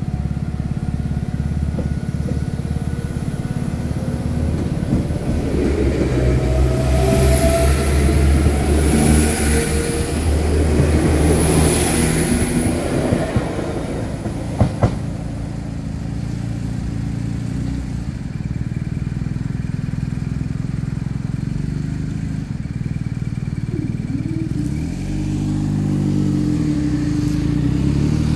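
Diesel multiple-unit train running over a level crossing. The engine and wheel rumble build to their loudest about a third of the way in, with a high hiss over the top, then ease off into a steadier engine sound. Near the end a pitched sound rises and falls.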